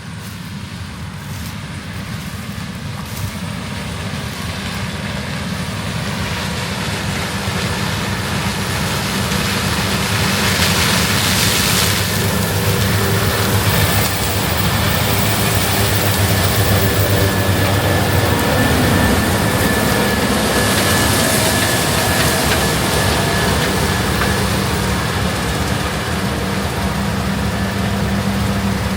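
Heavy diesel harvest machinery running steadily, growing louder over the first ten seconds or so and then holding steady.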